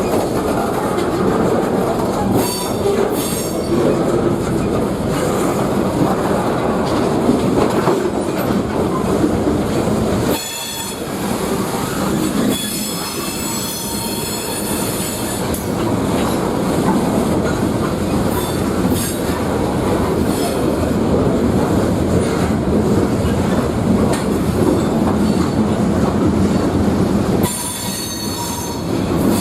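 Freight train rolling past on the rails, a steady heavy rumble with wheels clattering over the track. A high-pitched squeal of steel wheels on the rails comes in around the middle and again near the end.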